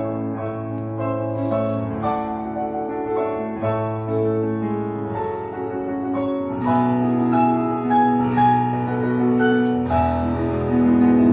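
Piano music: held chords and a melody, growing louder about two-thirds of the way through.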